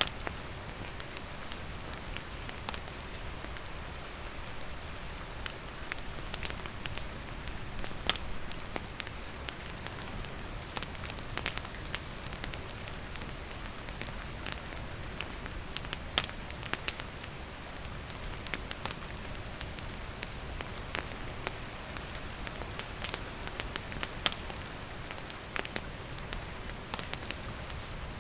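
Steady rain falling, with a wood campfire crackling: irregular sharp pops and snaps over the even hiss of the rain.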